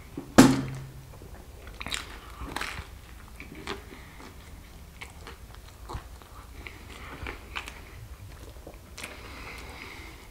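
Close-up chewing and biting of pizza: wet mouth sounds with crisp crunches of crust. A single sharp, loud thump comes about half a second in.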